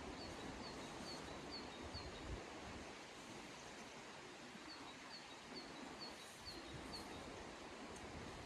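A small bird calling in two runs of short, high, down-slurred chirps, about two or three a second, over a steady outdoor hiss with low rumbles.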